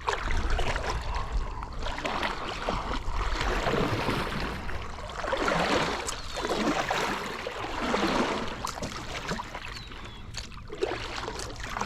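Water splashing and sloshing around a kayak on a shallow river, coming in swells roughly once a second.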